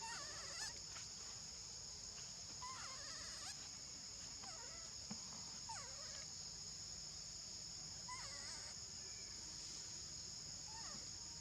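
Steady high-pitched insect drone, with a few short squeaky calls scattered through it, several of them rising or falling in pitch.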